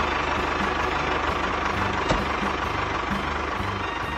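Tractor engine running steadily with an even low chugging pulse as the tractor drives off, with one short click about two seconds in.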